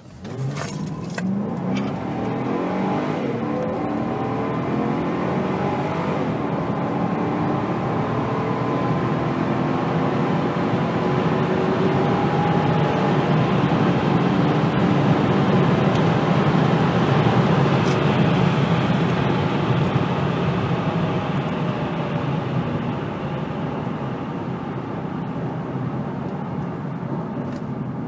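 Mercedes-Benz E60 AMG's 6.0-litre V8 accelerating hard, heard from inside the cabin. The engine note rises in pitch through the gears and grows louder, then eases off over the last several seconds as the car slows.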